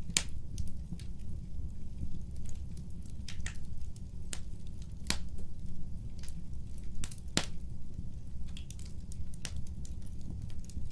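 Wood fire crackling: irregular sharp pops and snaps over a steady low rumble of burning, with the loudest pops near the start, about five seconds in and about seven seconds in.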